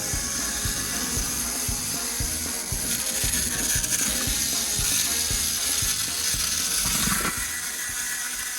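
Small battery-powered toy train running on wooden track: its geared motor whirrs steadily under a patter of small clicks, a few a second.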